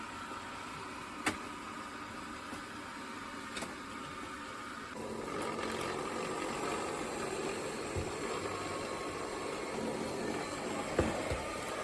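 Roborock Q7B+ robot vacuum running, a steady motor noise that gets louder about five seconds in, with a few short clicks.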